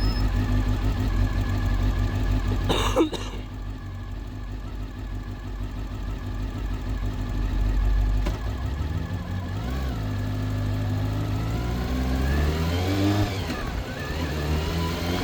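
Honda CBR400RR inline-four engine running on the road, its pitch rising and falling as it revs up through the gears, with one sharp knock about three seconds in.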